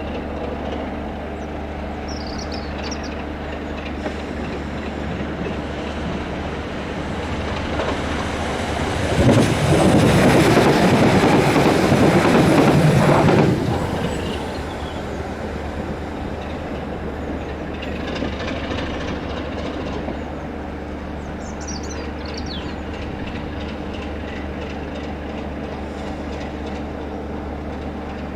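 Class 33 diesel-electric locomotive's Sulzer engine running with a steady hum. A little before halfway there is a much louder surge of noise lasting about four seconds. Faint high squeals come twice, near the start and about three quarters through.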